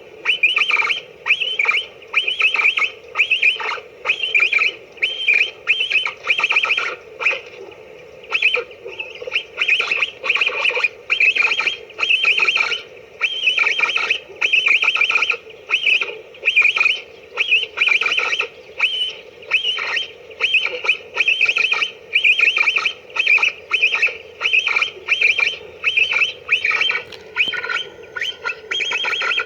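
Capybara calls: short squeaky chirps repeated about two a second in a steady, unbroken series.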